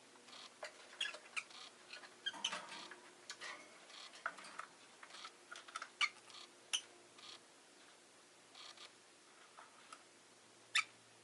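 Rosy-faced lovebird making soft, scattered short chirps and clicking sounds, busiest in the first half, with one sharper click near the end.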